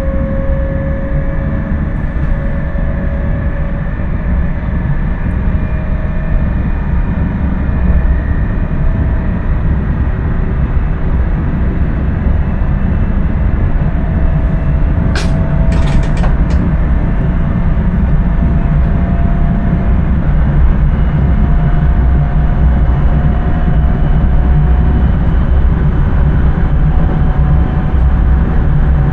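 Electric intercity train heard from the driver's cab while running along the line: a steady, heavy low rumble of the wheels on the rails, with a faint motor whine that slowly rises in pitch. A few sharp clicks come together about halfway through.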